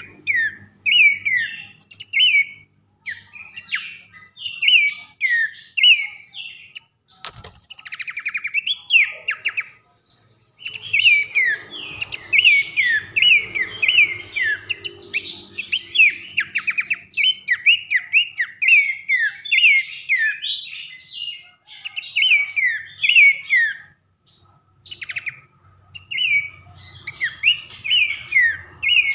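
Horsfield's babbler (pelanduk semak) singing loud whistled notes in quick, dense runs, with a brief pause about ten seconds in and a single sharp click about seven seconds in.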